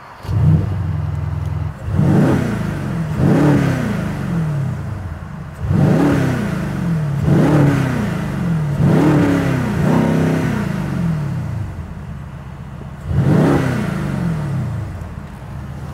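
Mercedes-AMG C63's 4.0-litre biturbo V8 starting with a high idle about half a second in, then free-revved in about seven short blips, each rising and falling back to idle. The revs are held at 4000 rpm by a soft limiter, and the exhaust gives no crackle even in Sport Plus with the flaps open.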